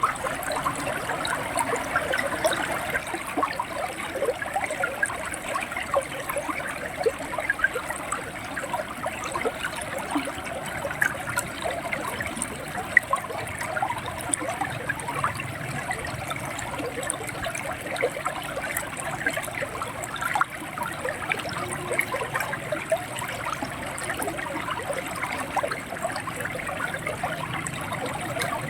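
Shallow river water running and gurgling steadily, with many small splashes.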